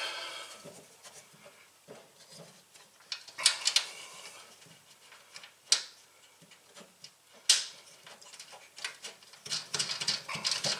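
Hand work on car parts: irregular metallic clicks, knocks and small rattles as parts and tools are handled, with three sharper knocks spread through the middle and a quicker run of rattles near the end.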